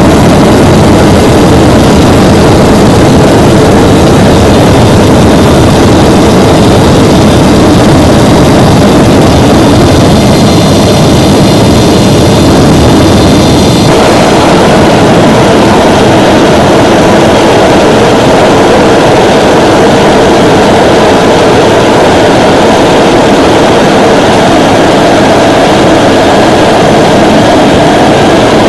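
Homemade gas-fuelled motorjet running continuously and loudly: a small piston engine driving a compressor, with the burning gas rushing out of the exhaust nozzle. About halfway through the sound changes abruptly, the thin high whistling dropping away and the mid-range noise growing stronger.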